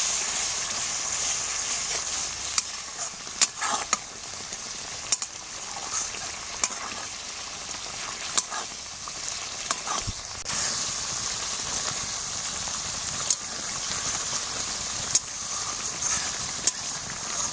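Curry masala sizzling in a metal kadai as it is stirred and scraped with a metal spatula, with irregular sharp clicks of the spatula against the pan. The spices are being cooked down until the oil separates.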